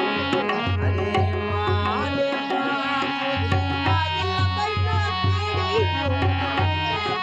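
Indian folk music: a hand drum plays a steady rhythmic pattern under sustained melodic lines.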